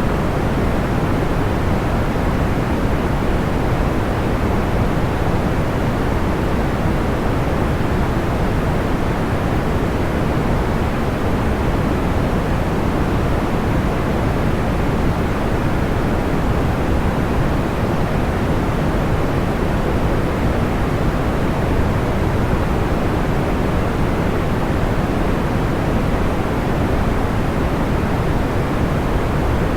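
Steady, unchanging noise weighted toward the low end, a soft pink-noise hiss and rumble with no crackles or pops standing out.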